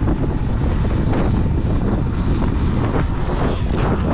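Wind buffeting the microphone of a rider moving on a Sur-Ron electric dirt bike: a loud, steady rush with no break.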